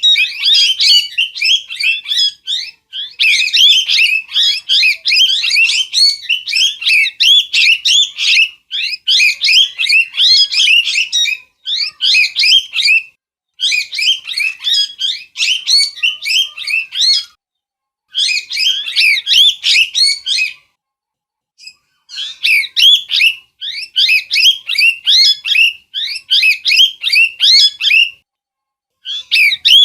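Parrot calling: rapid runs of sharp, shrill chirps and screeches, several a second, in bouts of a couple of seconds broken by short pauses.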